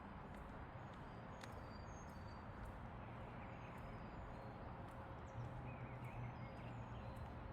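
Faint outdoor trail ambience: a walker's footsteps over a steady low hum, with scattered short, high chirps.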